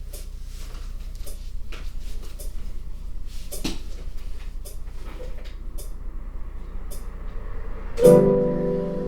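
Scattered crackling clicks of something being crumpled, over a low steady hum. About eight seconds in a keyboard chord is struck and rings on.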